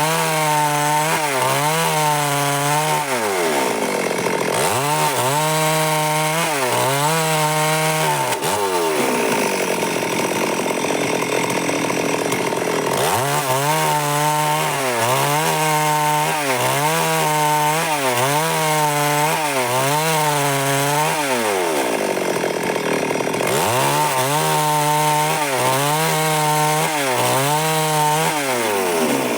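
Stihl MS 382 two-stroke chainsaw cutting wood under load. Its engine note wavers throughout, dipping and picking back up about three times.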